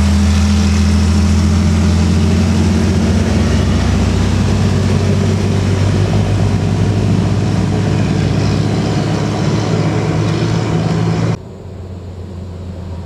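Heavy truck's diesel engine running, a loud steady low drone that eases a little about four seconds in. About eleven seconds in it cuts off abruptly, leaving a much quieter rumble.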